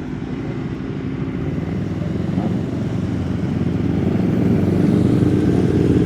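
A loud vehicle engine rumbling with a low, deep note that grows steadily louder.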